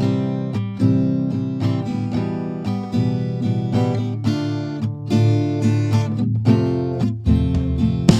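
Background music: an acoustic guitar strumming chords in a steady rhythm, starting abruptly from silence.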